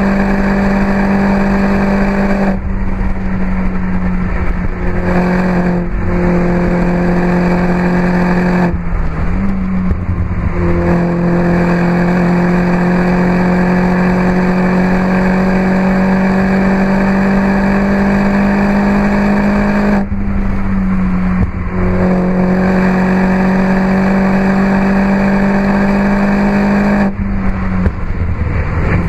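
Mini John Cooper Works Roadster (R59) with an Akrapovic exhaust at speed: its 1.6-litre turbocharged four-cylinder held at high revs, the note climbing slowly. The steady engine tone drops out briefly several times, once for about two seconds near a third of the way in.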